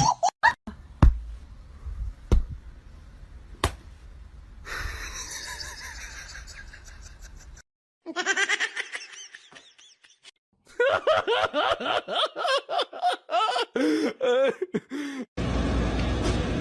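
People laughing in rapid, choppy bursts, after several sharp clicks and knocks in the first few seconds.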